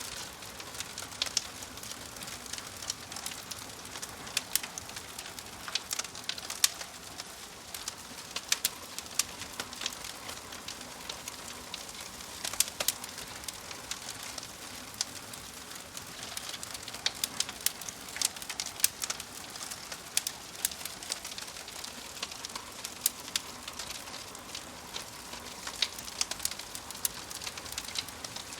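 Wood fire crackling, a steady hiss with frequent sharp pops scattered irregularly throughout.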